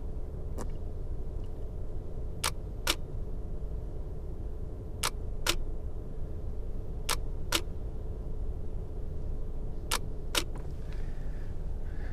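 Nikon DSLR shutter firing for slow exposures: four double clicks, the two clicks of each pair about half a second apart as the shutter opens and closes, repeated every two to three seconds. A steady low rumble runs underneath inside the parked car.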